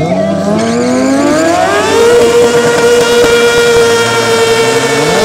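Motorcycle engines revved up in a burnout, rising in pitch over the first two seconds and then held at steady high revs, with another rev climbing near the end.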